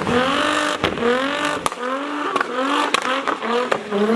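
Drift car engine revving hard again and again, its pitch climbing in quick pulls, with tyre noise and sharp cracks between the revs.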